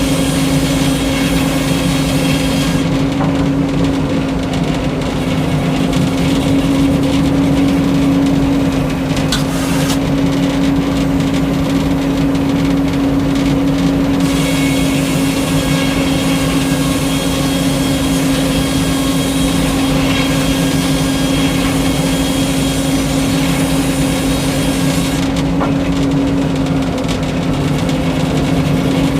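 Old Frick circular sawmill running steadily, its power unit holding one even pitch, with the higher-pitched content dropping and returning for stretches as the mill works.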